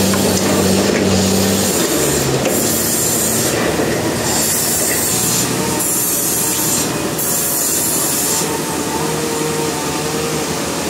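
Sawmill running, with a saw blade cutting through a Trembesi (rain tree) log. There is a steady machine hum, and a grinding hiss from the cut that swells and drops away about four times.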